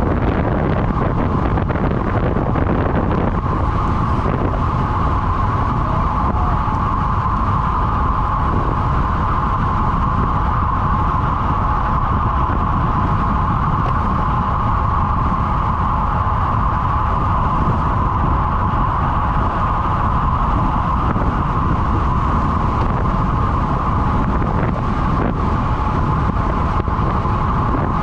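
Steady wind rush over the microphone of a road bike riding at speed, with a constant whine held at one middle pitch.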